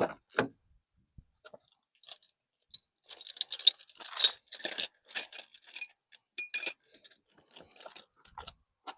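Small metal objects clinking and jangling as they are handled. There are two soft knocks at the start, then quick irregular flurries of clinks from about three seconds in.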